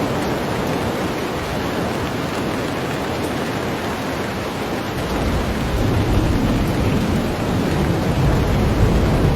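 Heavy rain pouring steadily, with a low rumble of thunder building from about halfway through.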